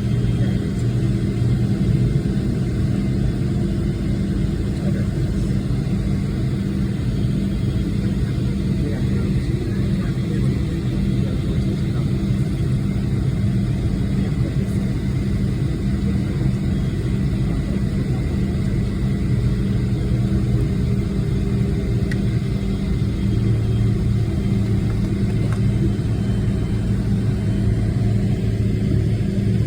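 Boeing 777-300ER's GE90 jet engines and airflow making a loud, steady rumble, heard from inside the cabin during the takeoff.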